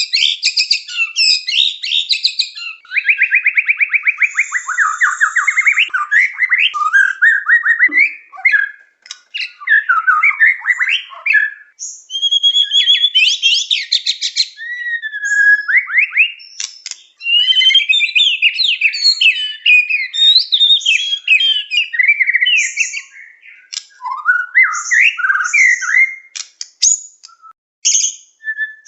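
White-rumped shama (murai batu) singing a loud, rapid, varied song of whistles, slurred notes and chattering phrases, with a fast trill about three seconds in and short pauses between bursts.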